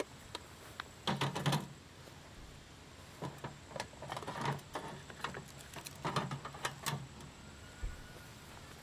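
Rapid clicking and rattling in three short bunches: about a second in, again around four seconds in, and around six seconds in.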